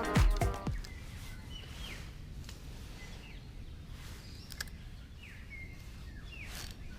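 Background music ends in the first second, then steady low outdoor background noise with about half a dozen short, sweeping bird chirps scattered through.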